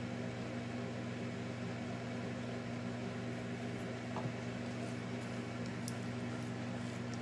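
Steady low electrical hum with a background hiss, unchanging throughout, and one faint click about four seconds in.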